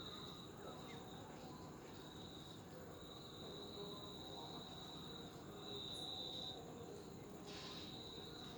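A faint, steady high-pitched trill that keeps on with short breaks, with a brief brighter chirp near the end.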